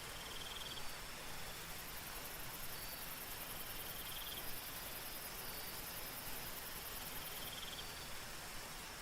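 Soft steady rain with night insects calling over it: a high, fast-pulsing trill from about a second and a half in until near the end, and a short chirp repeated three times, a few seconds apart.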